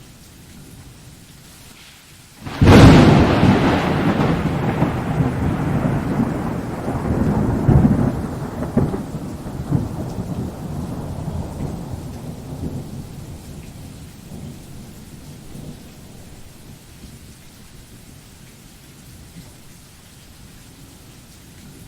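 Thunderstorm recording: steady rain, then a sudden loud thunderclap a couple of seconds in. The thunder rumbles on in swells and dies away over about ten seconds, leaving the rain.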